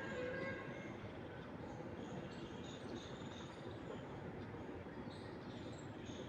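Steady wind through trees with small birds chirping in short, high notes throughout. A distant horn-like tone with several overtones fades out about a second in.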